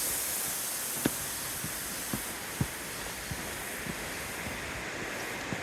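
Footsteps thudding on a dirt trail at an irregular walking pace, over a steady high hiss of outdoor background noise that fades slightly.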